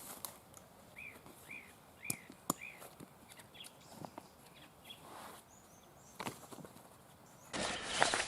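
Faint open-air ambience in which a bird gives a run of four short, arched chirps about half a second apart, about a second in, among scattered light clicks. Near the end a louder rustling, crunching noise starts abruptly.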